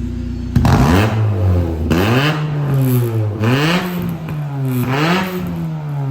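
Honda Civic EG engine revved four times through a BuddyClub Spec 2 exhaust with its silencer fitted. It idles briefly, then each blip rises in pitch and falls back. It is still loud, but a lot quieter than without the silencer.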